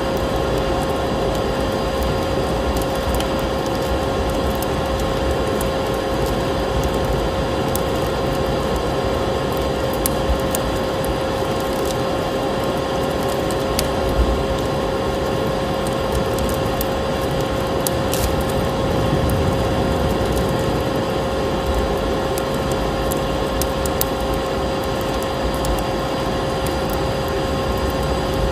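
Fireplace fire crackling, with scattered sharp pops over a steady rushing snowstorm wind, and a steady hum with an overtone running underneath.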